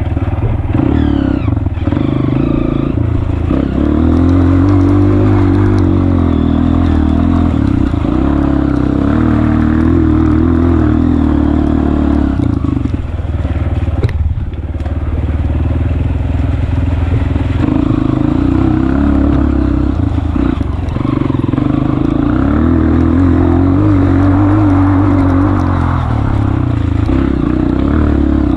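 Honda CRF230F's single-cylinder four-stroke engine running under way off-road, its revs rising and falling again and again as the throttle is worked, with a short easing-off about halfway through.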